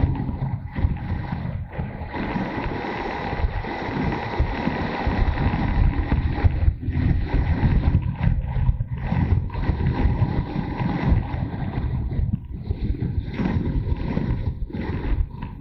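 Motorcycle engine running under way, mixed with heavy wind buffeting on the microphone that gusts up and down.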